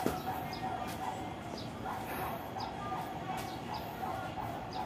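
Small birds chirping in short repeated calls, over a steady background tone.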